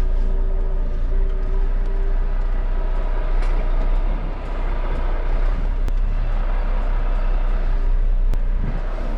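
Heavy goods vehicle's diesel engine running, heard from inside the cab, as a steady low rumble with road and cab noise.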